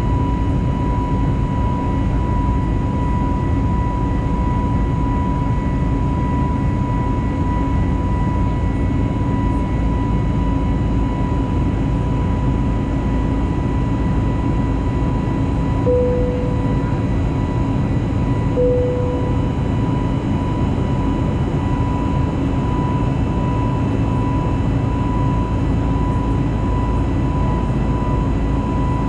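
Steady in-flight cabin noise of an Airbus A320neo with its CFM LEAP-1A engines: a low rumble of engine and airflow with a steady high-pitched whine over it. Two brief tones sound about two and a half seconds apart past the middle.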